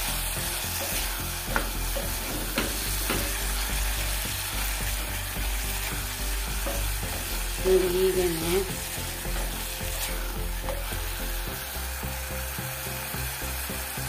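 Onions, tomatoes and green peas sizzling in oil in a small pressure cooker as a wooden spatula stirs them, with a few light knocks of the spatula against the pot. A brief wavering tone sounds about eight seconds in.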